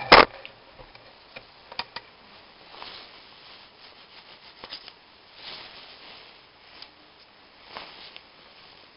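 Hand work on the valves of a Peugeot 206 1.1 petrol cylinder head: a sharp knock right at the start, then scattered light clicks and a few soft rubbing swells.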